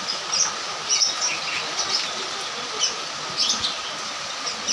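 Steady rain falling and splashing on a road, with a number of short, high chirps scattered over it.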